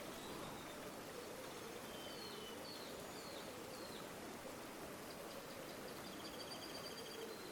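River water flowing steadily and softly. Small birds chirp a few times in the middle, and a rapid trill comes in near the end.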